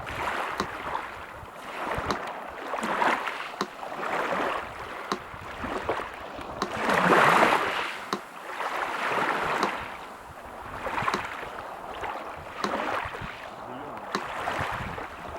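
Sea surf washing in and out in repeated swells, one wave surging loudest about halfway through, under a metronome ticking steadily about every second and a half.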